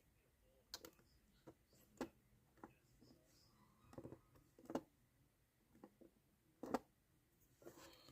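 Faint, scattered light taps and clicks, about nine in eight seconds and the loudest near the end, as hands handle model roofing pieces and small tools at a hobby workbench.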